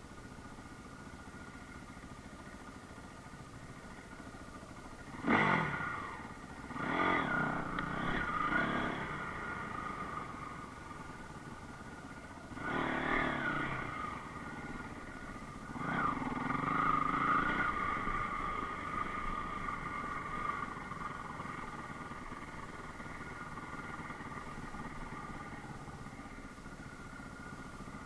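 Enduro motorcycle engine running steadily, revving up and back down in several short throttle bursts, with a longer surge about two-thirds of the way through.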